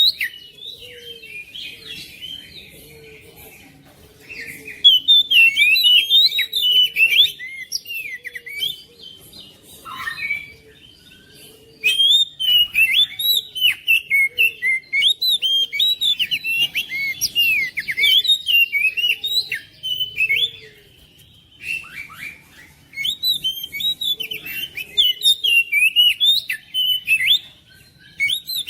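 Oriental magpie-robin (kacer) singing: loud, rapid runs of varied whistled and chattering notes, coming in three long bursts with quieter pauses between them.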